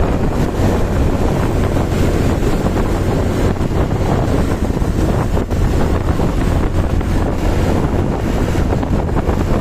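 Wind buffeting the microphone in a steady loud rush, with a low drone underneath.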